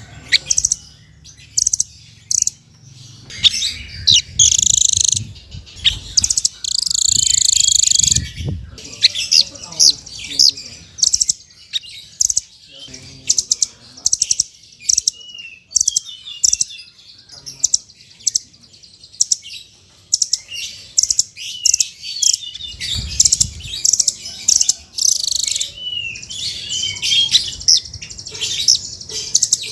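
Songbird song of the kind Indonesian keepers call a 'fighter' bird: rapid, high-pitched chirps and twittering trills in quick, shifting phrases, used as a masteran track for other birds to learn. A low rumble sounds under the song a few times.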